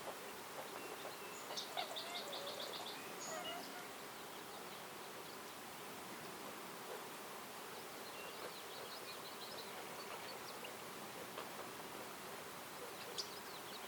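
Woodland birds singing over a steady background hiss. About two seconds in, one bird gives a quick trill of eight or so evenly repeated high notes. Softer twittering follows in the middle, and a short call comes near the end.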